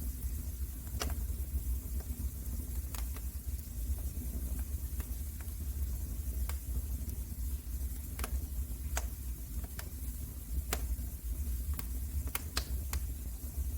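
Wood fire crackling in a fireplace: a steady low rumble and hiss of the flames with sharp pops at irregular intervals, a few bunched together near the end.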